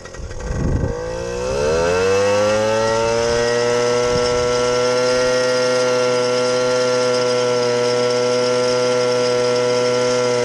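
Pit bike engine revving up over the first two seconds, then held at high, steady revs during a standing burnout.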